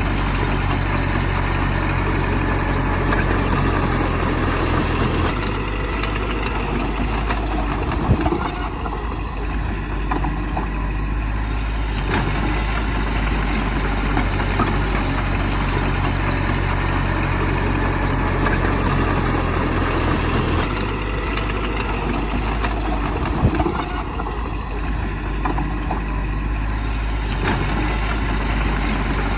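Heavy diesel earthmoving machinery running steadily. The engine note changes twice, each change followed a few seconds later by a short knock.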